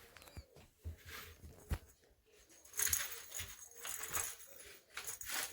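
Rustling and scattered light knocks from a cat playing with a toy, with the rustling coming in louder bursts about three seconds in.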